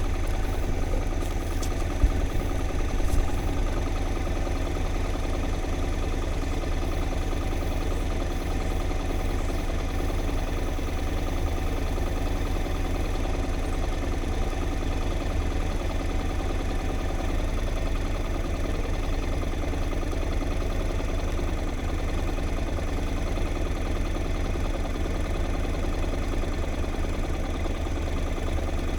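A steady engine hum running at an even pitch, with a strong low rumble and several constant tones above it. There are a couple of brief knocks about two and three seconds in.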